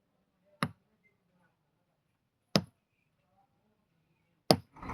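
Three sharp knocks or clicks, about two seconds apart, with near silence between them.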